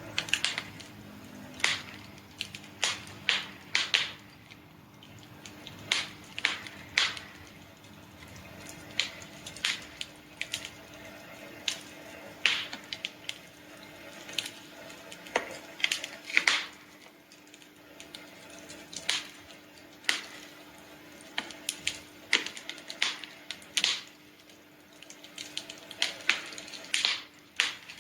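Campfire crackling: burning wood giving irregular sharp pops and snaps, in bunches with short lulls between, over a faint steady hum.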